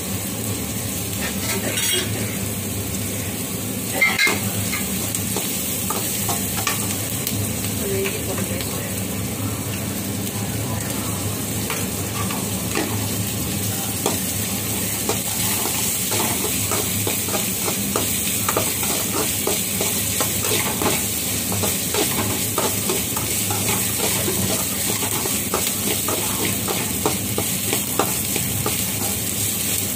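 Chopped onions frying and sizzling in a metal kadai, stirred with a long-handled metal ladle that scrapes and clicks against the pan. The clicks grow more frequent in the second half, and there is one sharp knock about four seconds in.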